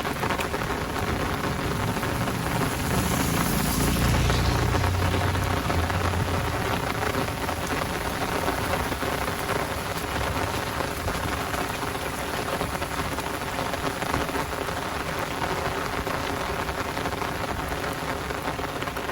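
Heavy rain pouring steadily in a downpour, a dense even hiss of drops. A low rumble of thunder swells and fades about three to six seconds in.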